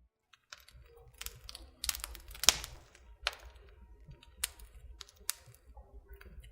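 Irregular light clicks and taps close to the microphone, about a dozen, the sharpest about two and a half seconds in, over a faint low rumble: handling noise.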